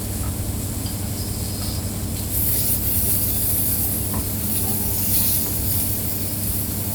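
Steady hiss of food sizzling and steaming on a hot grill plate over a low hum, the hiss growing louder from about two seconds in, with a few faint clinks.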